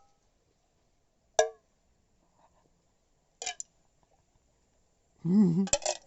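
Tableware clinking while eating: one sharp clink with a brief ring about a second in, a shorter click near the middle, then a short wavering voice sound with another click near the end.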